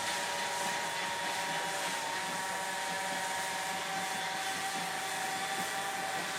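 Steady hiss of steam from the PT47 steam locomotive, with faint steady whistling tones running through it.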